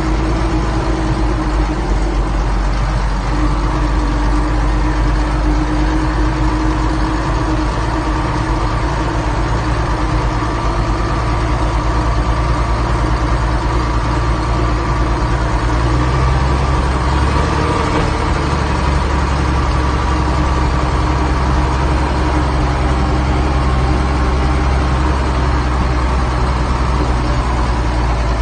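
Zetor 12245 turbo tractor's six-cylinder turbocharged diesel engine running steadily, its low note changing slightly about halfway through.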